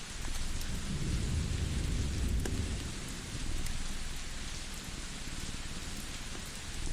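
Layered cozy-ambience soundscape: a steady rain-like hiss with scattered small crackles of a wood fire. A low rumble swells up about half a second in, holds for a couple of seconds and comes back briefly a little later.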